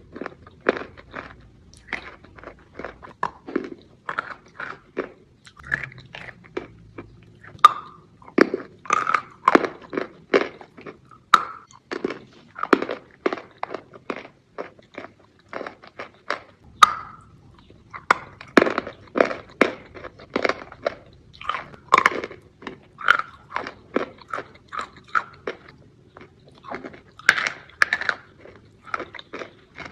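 Close-miked crunching and chewing of a hard chunk of edible chalk: sharp crackling crunches come several times a second, in uneven clusters, as it is bitten and ground between the teeth.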